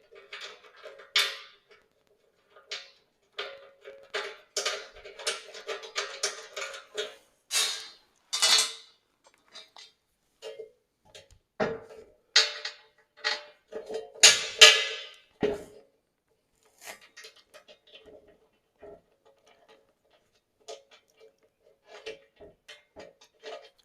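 Steel parts and bolts being handled and fitted together: irregular metallic clinks and clanks, some of them ringing, thickest in the first half and sparser towards the end.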